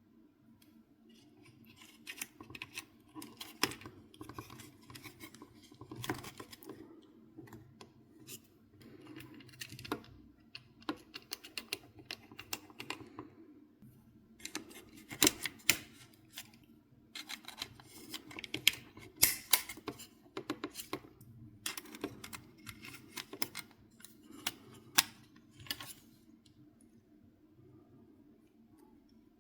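Irregular clicks, taps and scraping of small plastic and metal parts being handled, with the sharpest clicks in the middle of the stretch, then quieter near the end.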